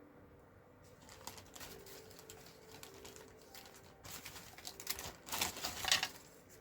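Small pieces of cut cardstock being handled and shuffled through: soft rustling and light clicks, growing busier and louder for a couple of seconds near the end.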